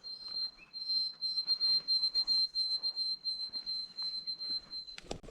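A sparrow singing: a long, high, clear whistled song held on one pitch with a light, even pulsing, after a shorter, lower opening note. A sharp click comes near the end.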